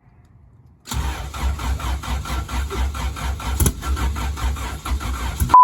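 Turbocharged, sleeved Honda B18C1 engine with Skunk2 Pro 1 camshafts running at idle, pulsing evenly about four or five times a second. It starts suddenly about a second in, gives one sharp pop about halfway through, and cuts off just before the end.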